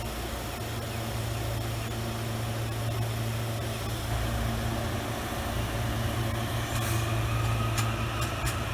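Diesel locomotive engine running with a steady low hum that slowly grows louder, joined by a quickening series of sharp clicks near the end.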